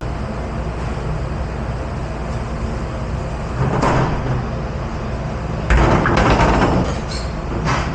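Dish pit noise: a steady hum of machinery and running water, a rush of noise about four seconds in, then loud, irregular clattering and knocking of dishware and racks from nearly six seconds in and again at the end.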